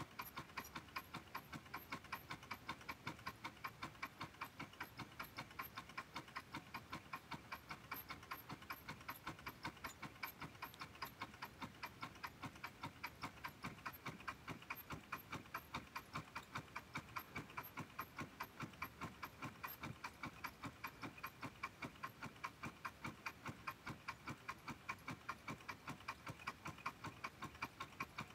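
Homemade Stirling engine running, with a steady, even ticking at about four ticks a second.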